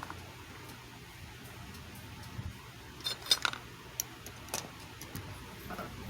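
Scattered small clicks and taps, with a quick cluster of them about three seconds in, over a faint steady low hum.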